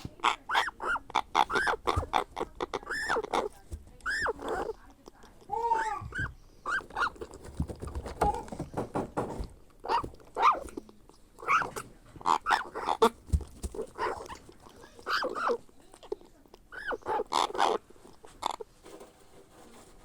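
African grey parrot chick giving food-begging calls: a rapid string of short, rasping squawks that rise and fall in pitch, in bursts with brief pauses, dying away near the end.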